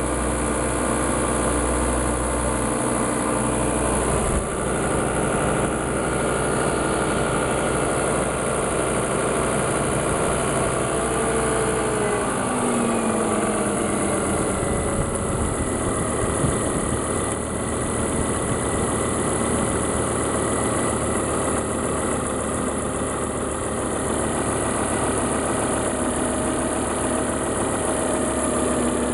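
Volvo S80 2.5T turbocharged five-cylinder engine idling just after start-up, with a noise and whistle over the running; one tone glides down in pitch about halfway through. The owner suspects the crankcase ventilation (oil trap) valve or the air-conditioning compressor clutch.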